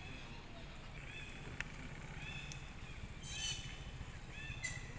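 Short, high chirping animal calls repeated about once a second over a steady low hum, with a few sharp clicks and two brief rustling noises in the second half.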